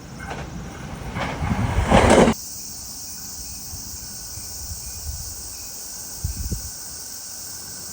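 An electric express train rushes past, its noise building for about two seconds before cutting off abruptly. A steady high hiss follows, with a single low thump near the end.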